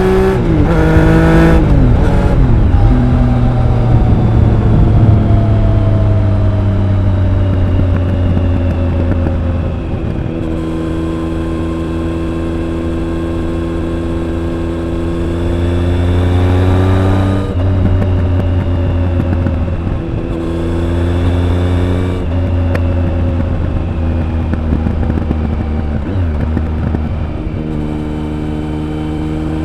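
Triumph Speed Triple 1050's three-cylinder engine and exhaust under way. The revs drop about two seconds in, then climb slowly in long pulls, falling back sharply near the middle and again a few seconds later, with another climb starting near the end.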